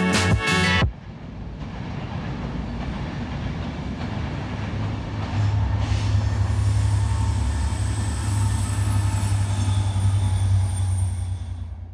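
Music cuts off about a second in. A train then passes, a steady low drone with wheel-on-rail noise and a faint high wheel whine, growing louder about halfway through.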